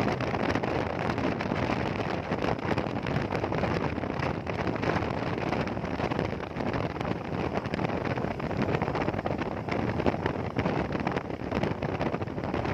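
Steady wind buffeting the microphone on a motorcycle as it rides along, with the vehicle's running noise beneath.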